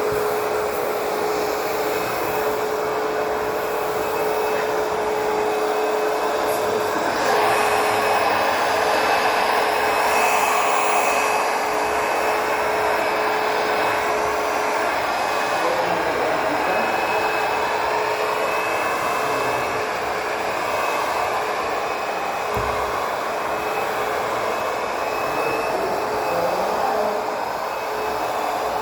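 ProTeam Super CoachVac backpack vacuum running steadily: a constant motor whine over rushing airflow, which swells and wavers for a few seconds about a quarter of the way in.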